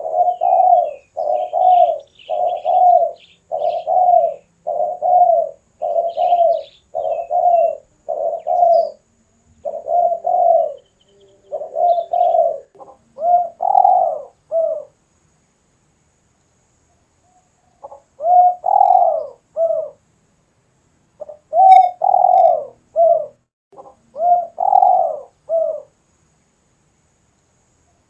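Spotted dove cooing, a gacor (vigorous, non-stop) call: a rapid string of low coos at about one and a half a second, breaking off for a few seconds past the middle and then starting again. Faint high chirps from a small bird sound near the start.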